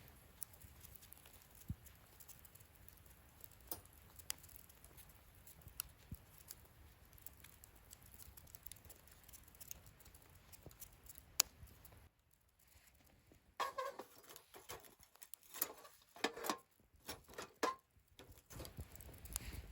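Wood fire burning in a fire stand, crackling softly with scattered sharp pops. About two-thirds of the way through, a short run of louder, irregular crunches and knocks.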